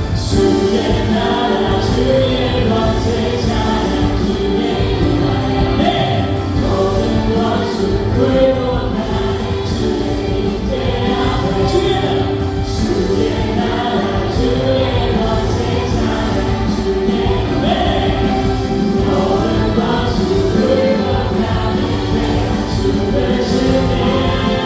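Live worship band of keyboards, synthesizer, electric guitar, bass guitar and drums playing a gospel praise song, with a group of voices singing along.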